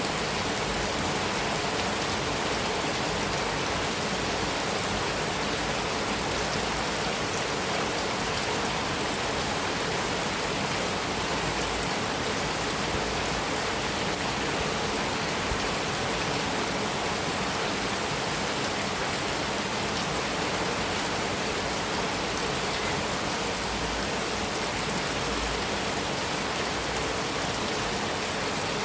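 Heavy rain falling steadily on a metal roof: an even, unbroken rush with fine drop patter.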